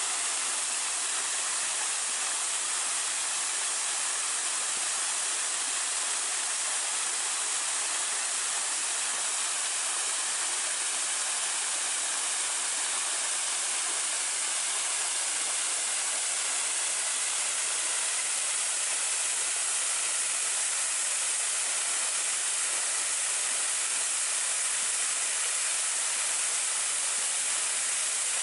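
Waterfall pouring: a steady rushing hiss of falling water, heaviest in the high range.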